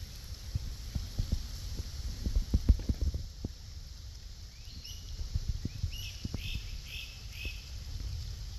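Outdoor ambience with a low rumble of wind on the microphone and a run of soft thumps, heaviest in the first three seconds. About five seconds in, a bird calls a quick series of four or five short, repeated high notes.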